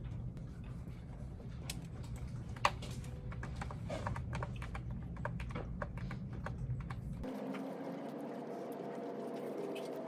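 Typing on a computer keyboard: a quick, irregular run of key clicks over a low steady hum. About seven seconds in, the sound cuts abruptly to a different, quieter background with a faint steady tone and only a stray click or two.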